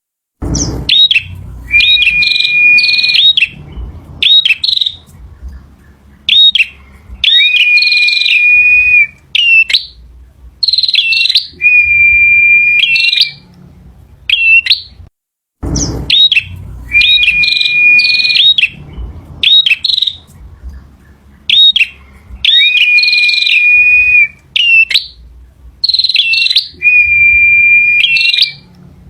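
A male prinia (prenjak) singing loudly: bursts of sharp chirps alternating with held, steady whistled notes, in phrases a few seconds apart. The same sequence of phrases plays again about halfway through, as if looped.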